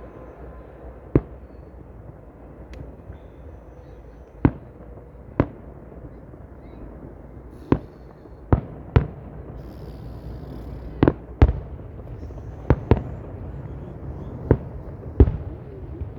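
Fireworks going off: about a dozen sharp bangs at irregular intervals, some in quick pairs, over a steady low background rumble.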